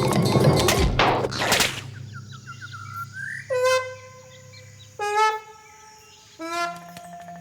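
Cartoon sound effects: the music gives way to two quick whooshes, then a rising run of chirps and three short honking calls about a second and a half apart.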